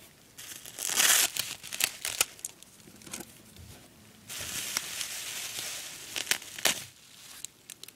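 Gift wrapping being crinkled and torn open by hand in irregular bursts, with the loudest rustles about a second in and again midway.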